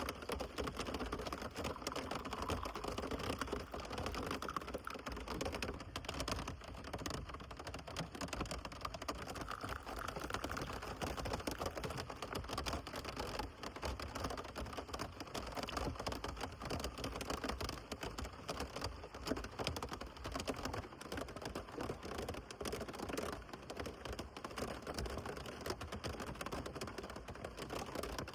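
Rain falling steadily, a dense, irregular patter of drops on a surface.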